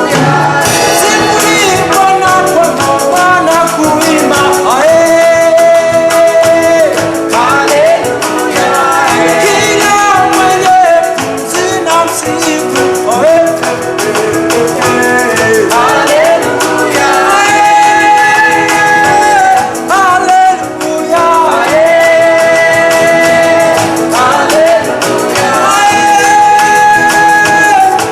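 Live gospel worship song: voices singing long held notes over instrumental backing with steady percussion.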